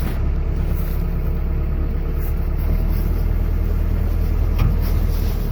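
A heavy vehicle's engine running steadily at low speed, a constant low hum: the tow vehicle pulling off.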